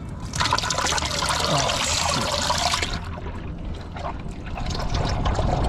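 Liquid rushing and splashing for about the first three seconds, then trickling more quietly.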